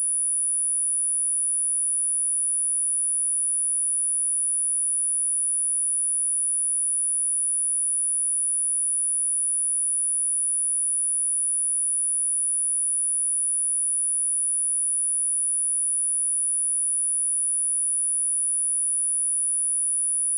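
A single steady 9818 Hz sine-wave test tone, a high-pitched whistle that holds one pitch and level without a break. It is a speaker test tone, played to check a speaker and to shake out dust and water.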